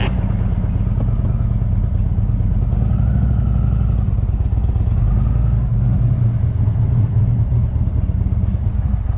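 Indian motorcycle's engine running steadily, a loud even low hum.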